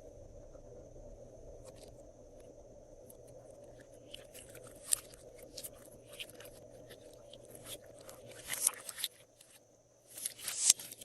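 Crackling and clicking of small objects being handled, scattered at first, busier from about four seconds in and densest near the end, over a faint steady hum.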